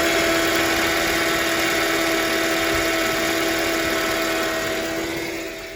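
Car engine idling with a steady, high squeak from the accessory belt drive that persists after a new water pump and alternator; the noise is from something on the belt, not from the engine itself. It fades a little near the end.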